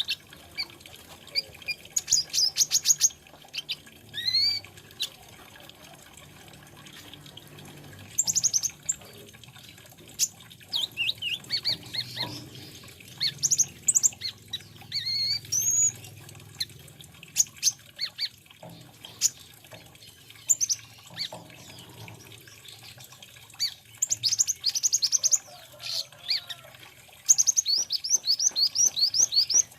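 Brown-throated sunbird ('kolibri ninja') singing: bursts of quick, high sliding chirps and rapid trills, broken by short pauses.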